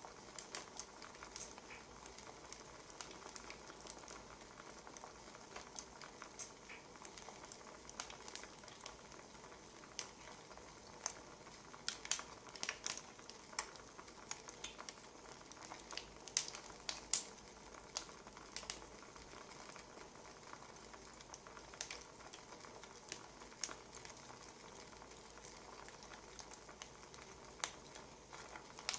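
Wood fire crackling: irregular pops and snaps over a steady soft hiss, with a run of louder snaps around the middle.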